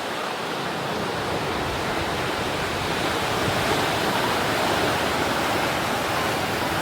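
Sea surf washing onto a beach: a steady, unbroken rush of breaking waves.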